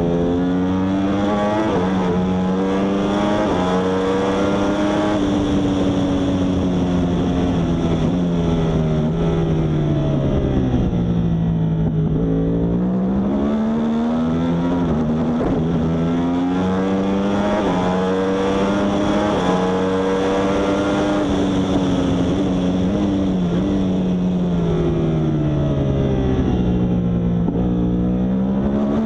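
Yamaha R1 superbike's inline-four engine running hard at high revs. The pitch sags as the bike slows about 11 seconds in and again near the end, then climbs back as it accelerates.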